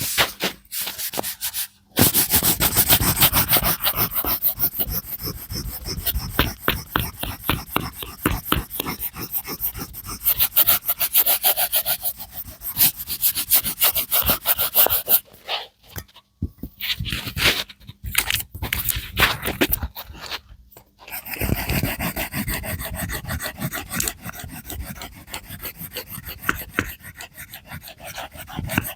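A colouring or drawing tool scratching across paper in rapid back-and-forth shading strokes, with a few short pauses.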